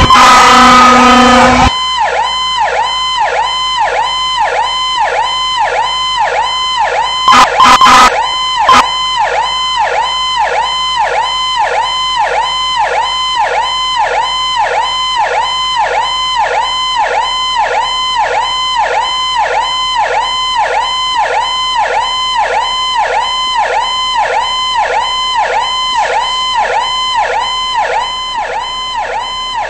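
Fire engine responding with its siren: a horn blast at the start, then the electronic siren cycling rapidly, about one and a half times a second, with a couple more short horn blasts about seven seconds in.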